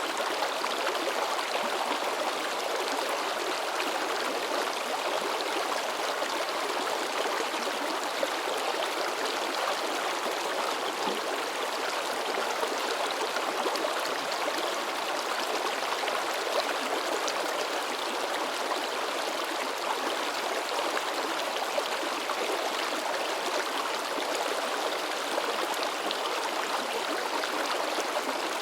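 Mountain stream flowing fast over rocks, a steady babble and splash of water.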